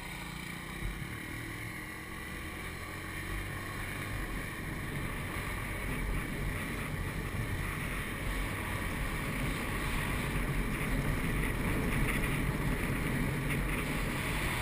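Small motorbike engine running while riding, mixed with wind noise on the microphone, growing gradually louder.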